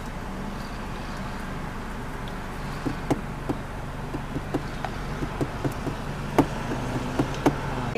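Car engine idling, heard from inside the cabin as a steady low hum. From about three seconds in there is a run of light, irregular clicks and taps.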